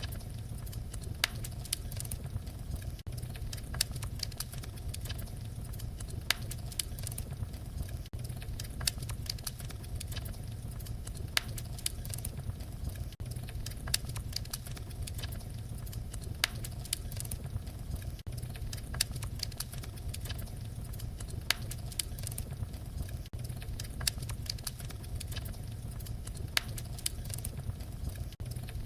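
Wood fire crackling: a steady low rumble of flames under frequent small snaps and a sharper, louder pop every couple of seconds.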